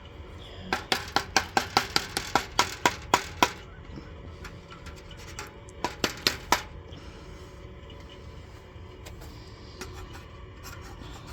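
Beehive quilt box being worked open by hand: a quick run of sharp clicks or snaps, about five a second for around three seconds, then four more a few seconds later.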